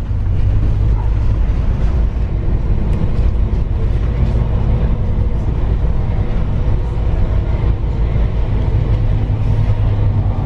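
A vehicle engine running steadily: a continuous low rumble with faint steady tones above it.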